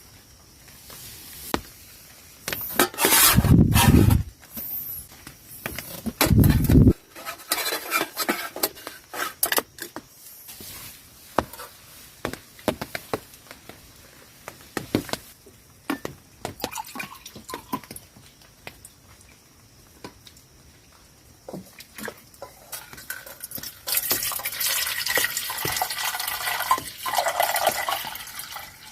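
Gear being handled at close range: scattered clicks and knocks, two heavy low thumps a few seconds apart, then liquid poured steadily for about four seconds near the end.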